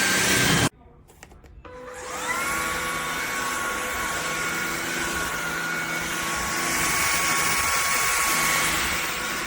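A loud noise cuts off abruptly, then after a few clicks a LEVOIT LVAC-200 cordless stick vacuum's motor spins up, its whine rising in pitch and then settling. It runs steadily with a high whine over a rushing hiss.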